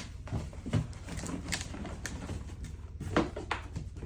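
Scattered light knocks, clicks and rustles from a new motorcycle helmet and its packaging being handled, the sharpest knock about three seconds in, over a steady low hum.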